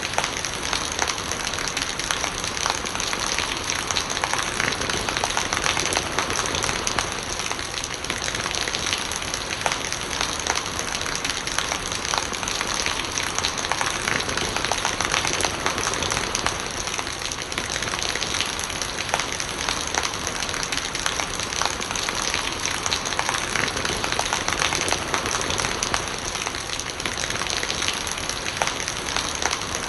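Steady rain falling, with many small drop impacts and rainwater gurgling.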